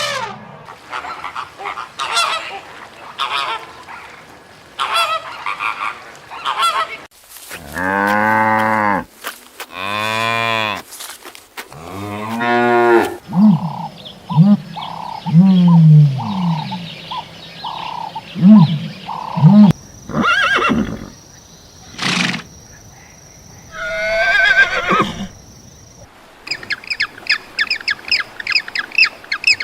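Farm animals calling one after another, including geese honking and cattle mooing in long, deep calls, followed near the end by rapid high bird chirps.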